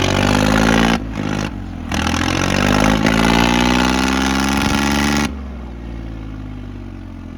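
Tractor diesel engine revved hard, its pitch rising and falling, with the throttle chopped twice briefly just after a second in, then settling back to a lower, steadier run a little after five seconds in.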